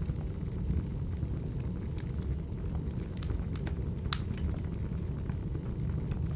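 Wood fire burning: a steady low rumble of flames with scattered sharp crackles and pops. The sharpest pop comes about four seconds in.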